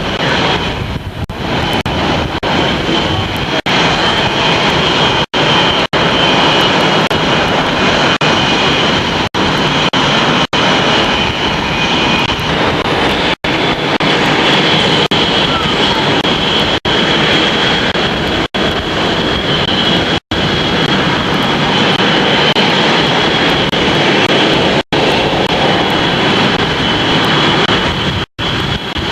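Aircraft engine running loud and steady, a dense roar with a steady high whine over it. The sound cuts out for an instant about a dozen times.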